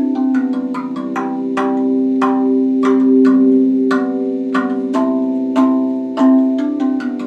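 RAV Vast steel tongue drum played by hand: notes struck about three times a second in a flowing pattern, each ringing on and overlapping the next.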